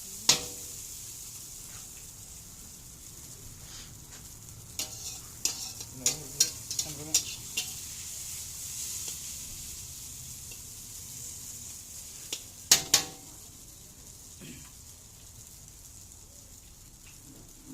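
Chicken chow mein sizzling as it fries in a pan, with a steady hiss, while a utensil stirs and tosses it, clattering against the pan in quick runs of knocks about a third of the way in and again around two thirds in. The sizzle fades down near the end.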